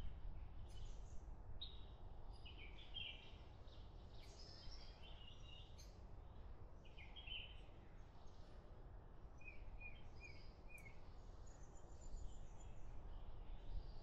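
Birds chirping and calling faintly in short scattered phrases, with a quick run of short chirps a little past the middle, over a low steady rumble.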